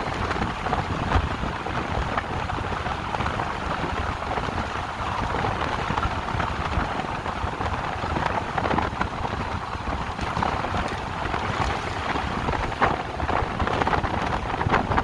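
Steady rush of wind over the microphone of a rider on an electric motorcycle at speed, visor up, with brief gusts of buffeting now and then.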